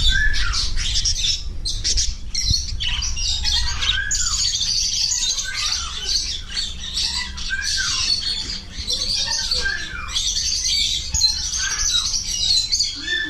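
Many caged pet birds chattering and squawking together, with one short rising-and-falling call repeated about once a second.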